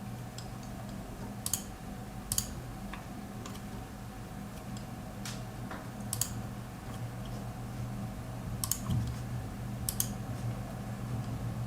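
Half a dozen separate sharp clicks from a computer mouse and keyboard, over the steady low hum of a running desktop PC.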